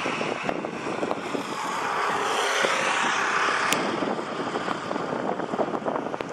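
A passing road vehicle, its noise swelling to a peak about halfway through and then fading, over wind buffeting the microphone.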